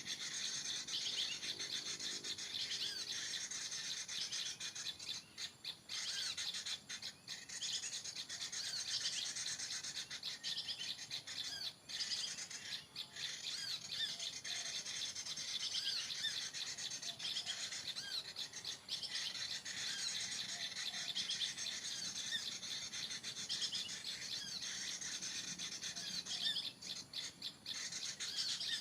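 Many small birds chirping and twittering at once: a dense, unbroken chorus of high, quick, overlapping calls.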